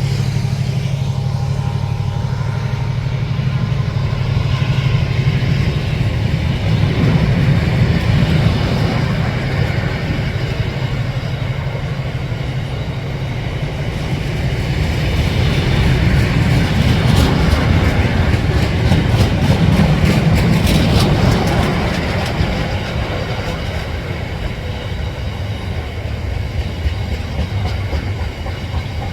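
A train running past, with a steady low drone and clatter of wheels over rail joints, loudest about halfway through.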